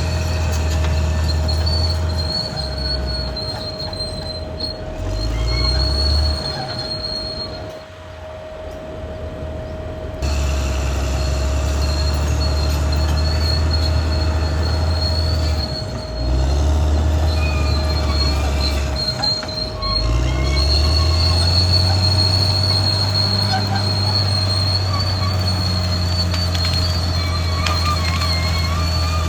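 Caterpillar D6R XL crawler bulldozer working: its diesel engine drone rises and falls with load, easing off about eight seconds in and pulling hard again a couple of seconds later, with a high steady whine from the steel tracks and running gear.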